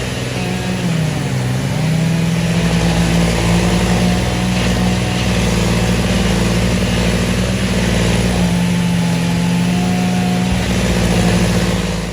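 An engine running at a high, steady speed, its pitch dipping briefly about a second in and then holding.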